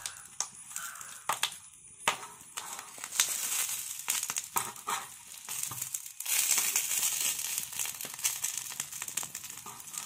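Banana-leaf parcels of Indian mackerel sizzling and crackling on a hot iron tawa, with clicks and scrapes from a steel spatula and the dry leaves crinkling as the parcels are moved. The sizzle grows louder about six seconds in.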